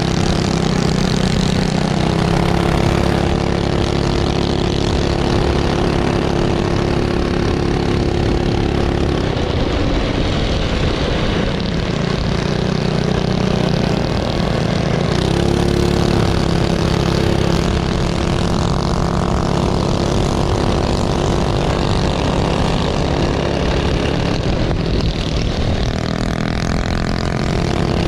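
Minibike engines running at high revs as the bikes lap a circle track, the engine pitch holding steady for stretches and then dropping and climbing again several times.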